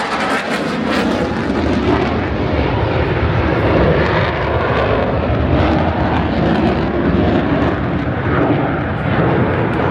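An F-16 fighter jet's engine heard as it flies over: a loud, steady rushing noise.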